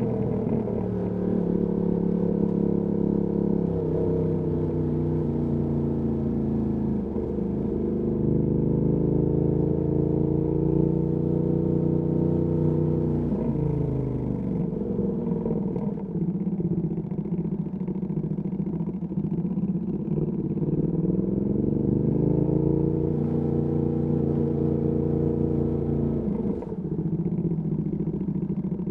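Ducati Panigale V2S V-twin through a Termignoni exhaust, riding in town: the engine note rises and falls repeatedly with throttle and gear changes, with sharp drops in pitch about halfway through and again near the end.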